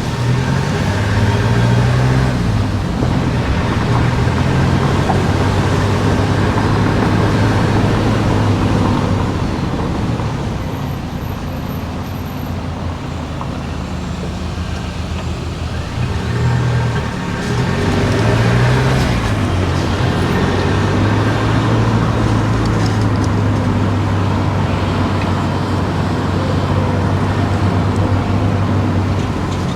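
Car engine and road noise while driving through town streets. The engine pitch rises briefly twice, about a second in and again past halfway, as the car speeds up, and the sound eases off for a few seconds in between.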